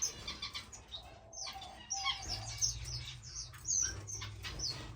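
Small aviary finches chirping: many short, high chirps, each sliding downward, come in quick irregular succession.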